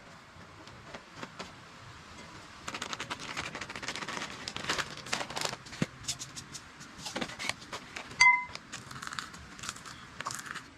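A rapid, irregular series of clicks, crackles and scrapes that begins a few seconds in, with a brief clear ringing tone about eight seconds in, the loudest moment.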